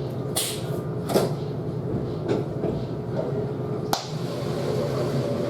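Dishwashing clatter: several short knocks and scrapes of trays or dishes over a steady machine hum.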